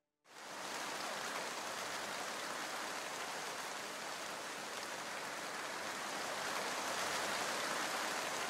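Recorded rain sound effect played over the theatre sound system: a steady hiss of rainfall that starts suddenly and grows slightly louder near the end.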